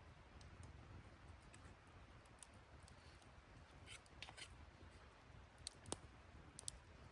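Near silence, with a few faint, sharp clicks scattered irregularly, the clearest about six seconds in.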